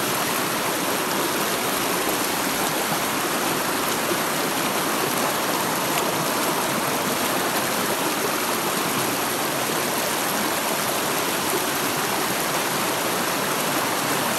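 Rushing water of a rocky mountain stream or waterfall: a steady, even roar with no change.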